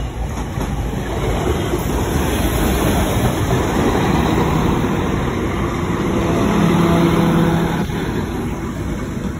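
Translink NI Railways diesel multiple unit passing close by over a level crossing: a steady rumble of wheels on the rails that grows louder, with a steady hum from the train rising to its loudest about seven seconds in.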